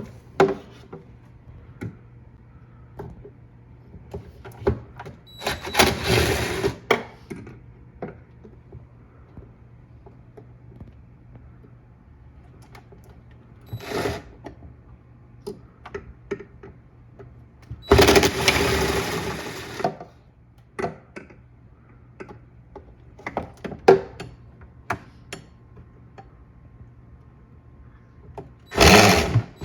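Clicks and knocks of parts being handled and removed, broken by four short runs of a small motor; the longest, about two seconds, comes a little past the middle and another starts near the end.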